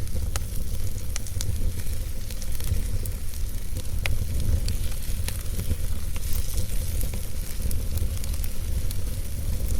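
Campfire burning, with scattered sharp pops and crackles over a steady hiss and a low rumble.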